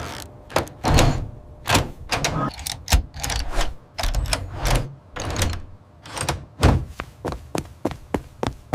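A series of knocks and thuds, irregular at first, then a quicker run of short taps, about three a second, near the end.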